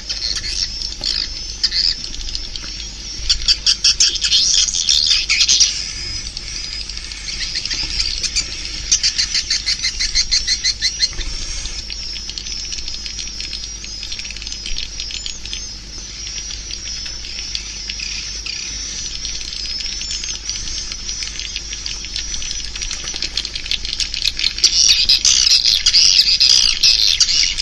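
Swiftlet lure call: edible-nest swiftlets twittering in rapid chattering trills. The chatter comes in louder bursts about three seconds in, around ten seconds, and again near the end.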